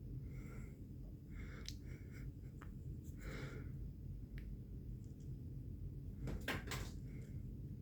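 Light taps, clicks and rustles of a cat playing with a toy bird, with two sharper clicks about six and a half seconds in, over a low steady hum.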